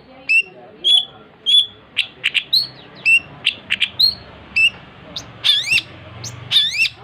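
Long-tailed shrike (cendet) singing: a rapid string of short, sharp chirps, turning to a few looping, up-and-down whistled notes near the end.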